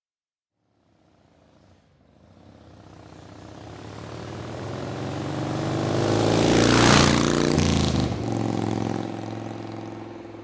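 A motor vehicle's engine passing by: it grows steadily louder to a peak about seven seconds in, drops in pitch as it goes past, then fades away.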